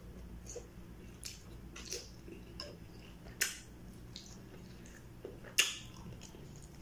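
A person chewing battered quail eggs (kwek-kwek) with wet mouth clicks and lip smacks, two of them sharper and louder, one about halfway through and one later on.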